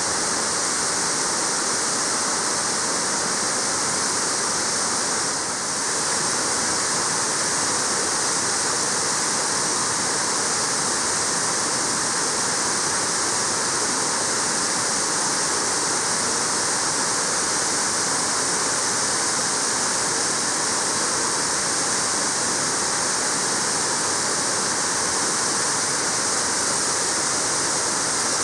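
Waterfall: a steady, dense rush of water falling and splashing.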